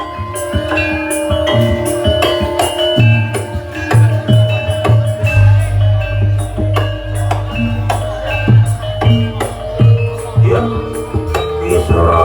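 Javanese gamelan accompaniment for a barongan dance: ringing tuned metal notes in a running melody over regular low drum beats.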